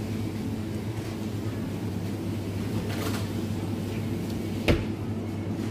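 Steady low hum of supermarket refrigerated display cases, with a single sharp knock about three-quarters of the way through.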